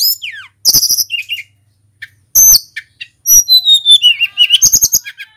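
Hill blue flycatcher (tledekan gunung) singing: loud, varied high whistled phrases with sharp slurs and trills, a brief pause in the middle and a quick run of notes near the end.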